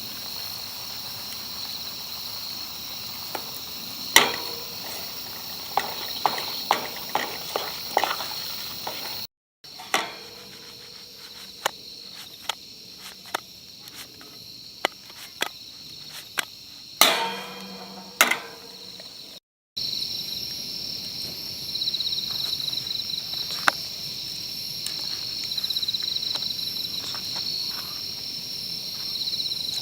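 Crickets and other insects chirping steadily, with scattered sharp knocks and clicks and one louder ringing clank about two-thirds of the way through.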